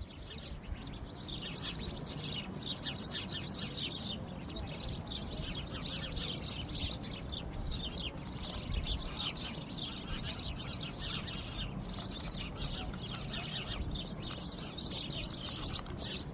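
Many birds chirping, with quick high chirps overlapping one another continuously.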